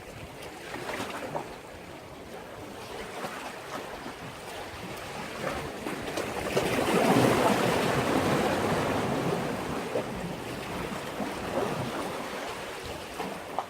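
Sea waves washing against a breakwater: the surge builds and breaks about halfway through, then draws back, with small splashes throughout.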